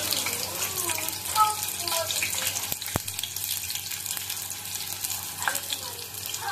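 Onions sizzling in hot cooking oil in a pan: a steady frying hiss. A single sharp click about three seconds in.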